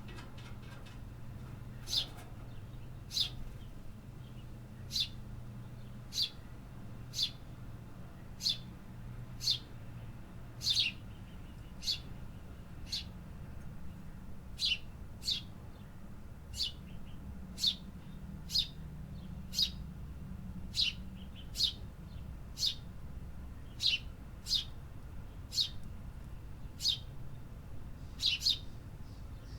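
A bird chirping over and over, single short sharp notes that drop in pitch, about one a second, starting about two seconds in. A steady low rumble runs underneath.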